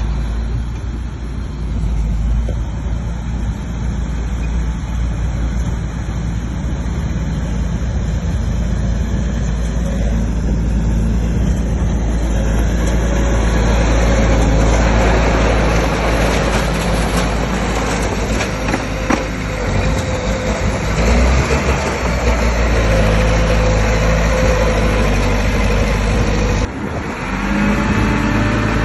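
Bulldozer's diesel engine running steadily, growing louder and rougher from about halfway through. Near the end it drops briefly, then the engine picks up again with a rising pitch.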